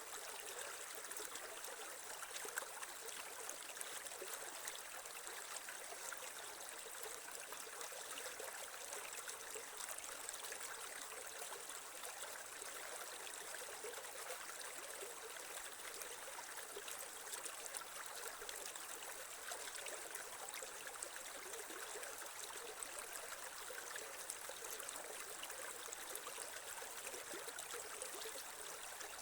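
Shallow creek water flowing and trickling steadily over stones.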